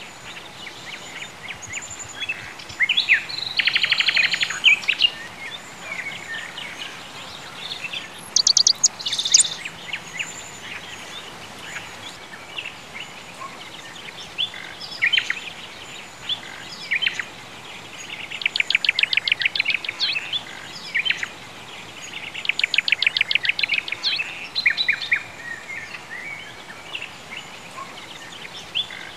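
Songbirds chirping and singing, with several quick trills of rapidly repeated notes (near 4 s, from about 18 to 20 s, and from about 22 to 24 s), over a steady faint hiss.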